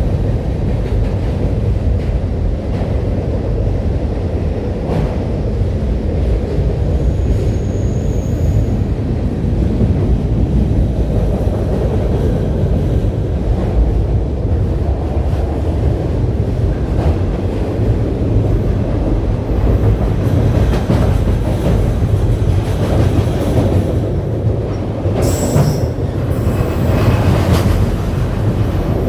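A train rolling past close by, a steady heavy rumble of railcars on the track, with a brief high wheel squeal about seven seconds in and sharper metallic clanks and squeals near the end.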